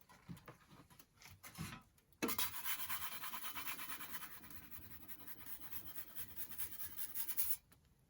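Wood fire crackling and hissing inside a wood-fired pizza oven, a dense scratchy crackle that starts about two seconds in and cuts off sharply near the end. A few faint clicks come before it.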